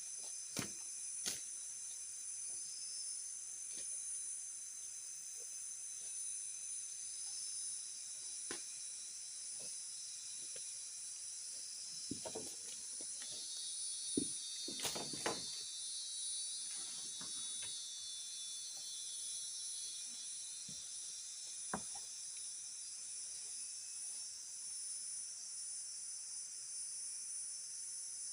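Steady, high-pitched chorus of forest insects, with a few scattered knocks and rustles, the loudest cluster about halfway through.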